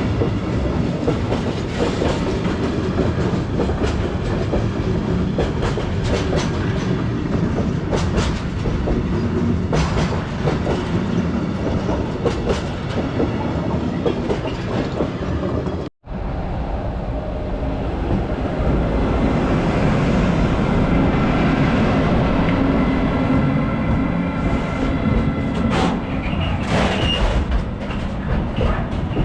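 Freight train rolling past at speed, its wagon wheels clacking over the rail joints. About halfway through the sound cuts out for an instant. It then returns as a steadier rolling rumble with a low hum and faint high ringing tones.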